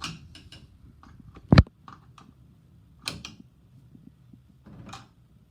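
Hard faucet parts clicking and knocking as they are handled and fitted together. There is a sharp knock about a second and a half in, a few lighter clicks around three seconds, and a softer one near five seconds.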